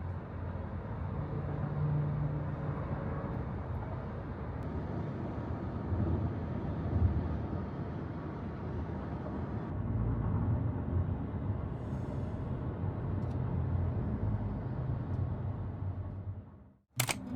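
Steady low vehicle rumble, fading out shortly before the end.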